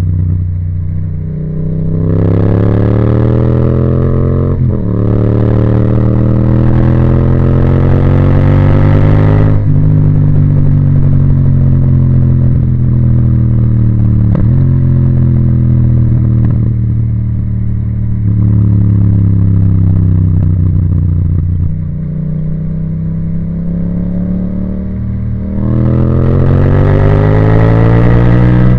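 Yamaha MT-07's parallel-twin engine through an Akrapovic titanium exhaust, pulling hard through the gears: the pitch rises twice with a brief break at each gear change, then falls away off the throttle, and climbs again near the end.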